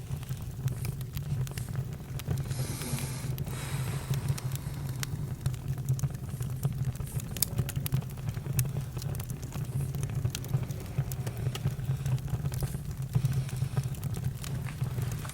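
Campfire crackling, with irregular sharp pops and snaps over a steady low rumble, and a brief hiss about two and a half seconds in.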